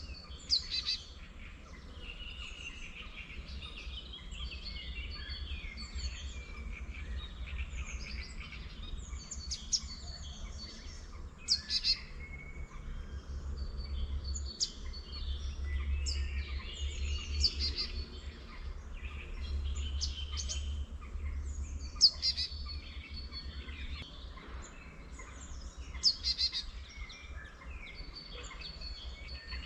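Several wild songbirds singing and calling in a mix of varied phrases, with a few louder, sharper calls standing out. A steady low rumble runs underneath.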